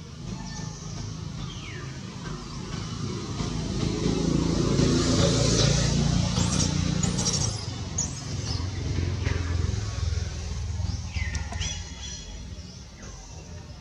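Birds chirping now and then, with a low rumble and rustling hiss swelling for a few seconds in the middle.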